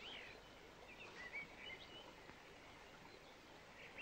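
Faint birds chirping: a few short calls in the first two seconds and another near the end, over a steady low hiss.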